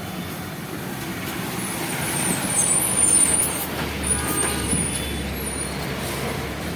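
A heavy road vehicle passing with its engine rumbling, and high squeals of its brakes from about two to five seconds in.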